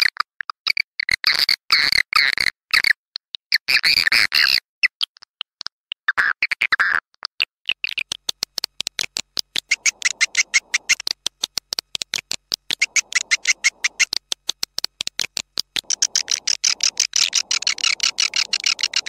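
Swiftlet lure call, a recording of edible-nest swiftlet chirps and twitters played back to draw swiftlets into a nesting house. Dense bursts of high chirping over the first seven seconds give way to a fast, even run of short chirps, several a second.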